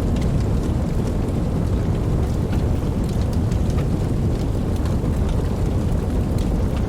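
Steady rain falling: an even, dense wash of noise, heaviest in the low range, with scattered sharp ticks of single drops.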